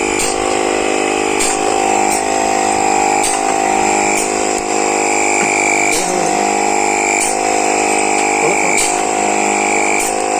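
Small 12 V DC air pump running with a steady, loud buzzing drone, with short sharp clicks at irregular intervals of about a second.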